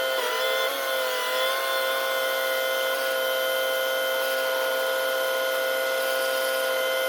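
A machine running with a steady, high-pitched whine, most likely the boom truck's engine and hydraulic drive working the boom. The pitch dips briefly about half a second in and then holds steady.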